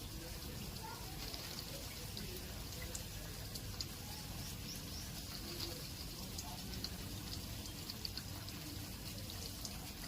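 Water pouring and trickling as pet parrots bathe in it, with many short, high ticks scattered throughout.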